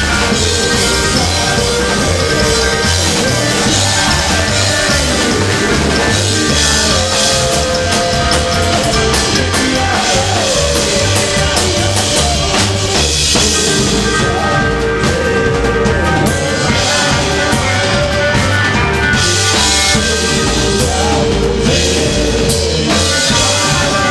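Rockabilly band music with a drum kit and a steady, driving bass line.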